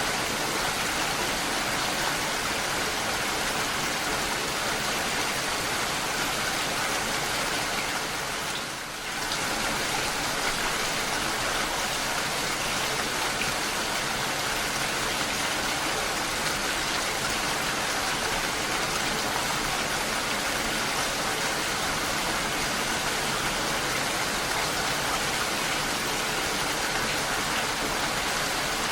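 Steady rain falling, an even, dense hiss of drops. Its level dips briefly about nine seconds in.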